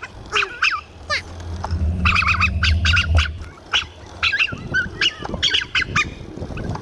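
Birds calling, many short calls in quick succession, over a low rumble from about a second and a half to three seconds in.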